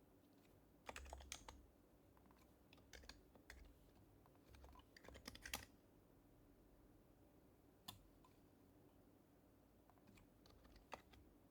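Faint typing on an HHKB Professional HYBRID Type-S keyboard with silenced Topre switches: short bursts of soft keystrokes, with pauses between them and a single keystroke in the middle.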